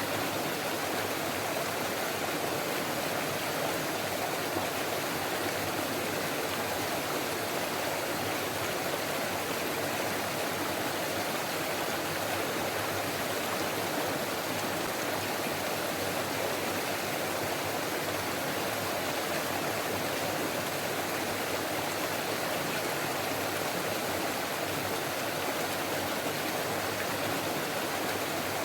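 Forest stream flowing and babbling over rocks, a steady, unbroken rush of water.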